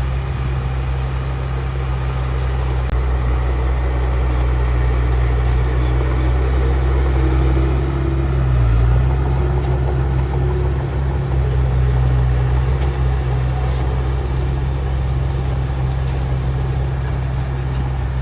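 Heavy diesel engine running steadily with a deep low drone.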